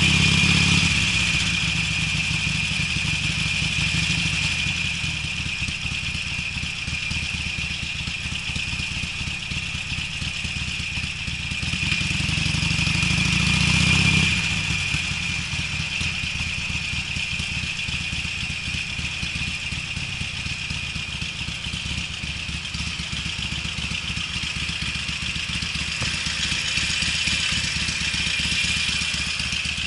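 Harley-Davidson Sportster V-twin running through Screamin' Eagle mufflers while being ridden. It pulls harder near the start and again about twelve seconds in, easing back at about fourteen seconds to a lower, steady beat. The exhaust has a deep bass tone with little dry crackle.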